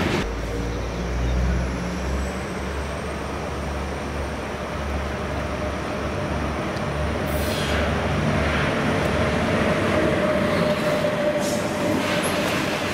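Freight train of tank wagons hauled by a DB electric locomotive passing close by: a continuous low rumble of wheels on the rails, with a steady whine in the second half.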